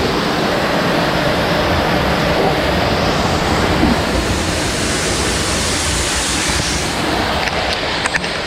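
Rushing water of a jungle river waterfall: a loud, steady roar of falling water, with a few light knocks near the end.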